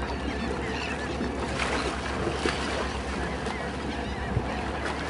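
Boat engine running steadily: a low, even drone with a fine regular pulse, under the hiss of water and open air.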